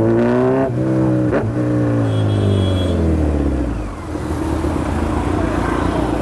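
Motorcycle engine pulling hard, with two brief breaks in the note in the first second and a half, then its pitch falling steadily as the bike slows. After about four seconds it settles into a steady low rumble mixed with road and wind noise.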